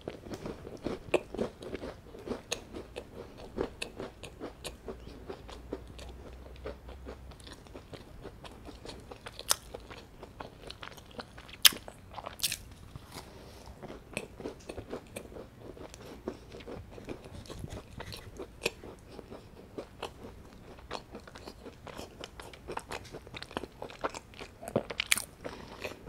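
Close-miked chewing of a plain scone: a dense, irregular run of small crumbly crunches and mouth clicks, with a few sharper crunches about halfway and near the end.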